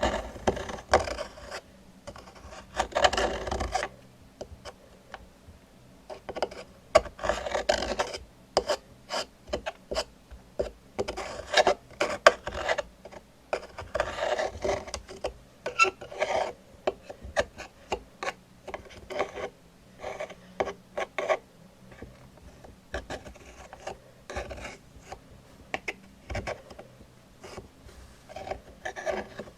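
Close-miked scratching and rubbing on a hard surface, in strokes a few seconds apart, with many quick taps and clicks between them.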